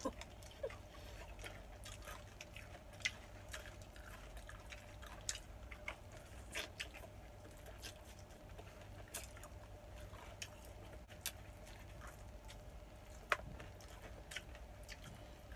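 Eating sounds: scattered small clicks and mouth smacks at irregular intervals, over a faint steady hum.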